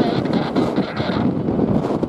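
Boeing C-17 Globemaster III's four turbofan engines running at high thrust, a loud, dense rumble, with wind buffeting the microphone.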